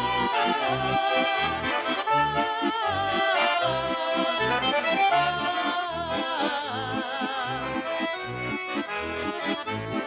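Accordion playing an instrumental interlude of a Russian folk song: a melody with a wavering tone over a regular bass-and-chord accompaniment pulsing about twice a second.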